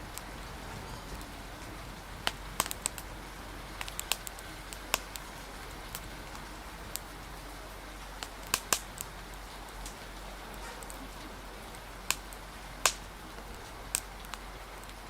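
Wood fire crackling, with irregular sharp pops, the loudest about thirteen seconds in, over a steady hiss of rain and wind.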